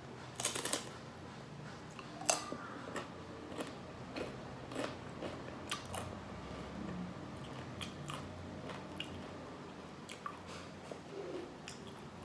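Crisp tortilla chip with salsa being bitten and chewed. The loudest crunches come in the first couple of seconds, followed by smaller crackling crunches as the chewing goes on.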